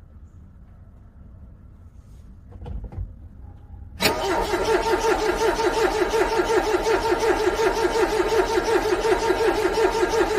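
Car starter cranking a cold engine in a fast, even rhythm without it catching, starting suddenly about four seconds in after a few quiet seconds.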